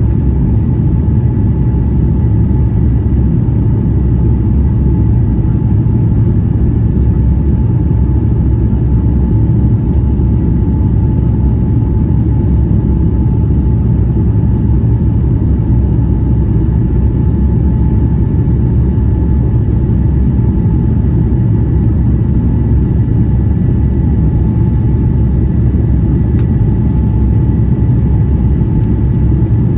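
Airbus A350-900 cabin noise: its Rolls-Royce Trent XWB engines and the airflow make a loud, steady low rumble, with faint steady whining tones above it.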